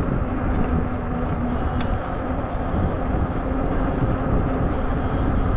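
Steady wind rumble on the handlebar camera's microphone while riding a Zota Zephyr fat-tire folding e-bike, with a faint steady hum underneath.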